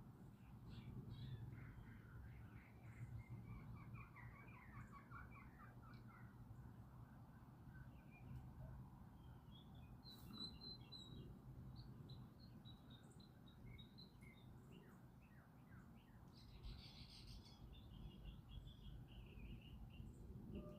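Faint outdoor ambience: small wild birds chirping and singing in short trills, over a low steady rumble.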